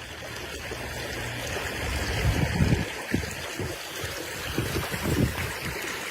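Floodwater flowing and splashing like a running stream, with irregular low surges.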